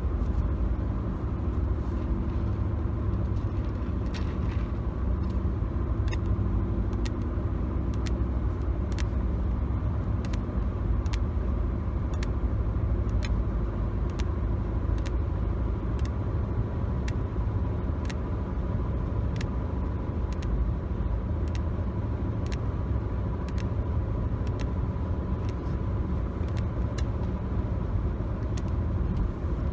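Steady road and engine rumble inside a moving car's cabin, with light fingertip taps on interior surfaces about once a second.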